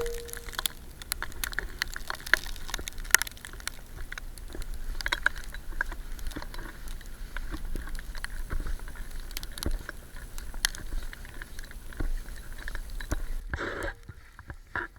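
Bicycle tyres crunching through snow, with many irregular crackles and clicks over a steady low noise.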